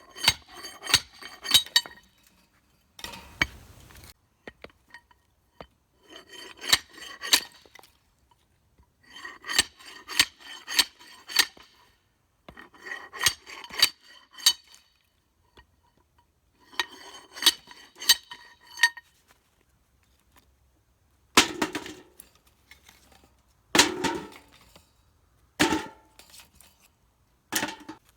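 Steel on steel: the kindling splitter's weighted tubing sliding and striking down its sucker-rod shaft in quick clanking runs of several ringing hits, repeated every few seconds. Near the end come four single, heavier knocks about two seconds apart.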